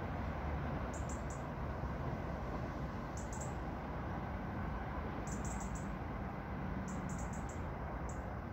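Small bird calling with short, high chirps in quick clusters of three or four, repeating every second or two, over a steady outdoor rumble and hiss.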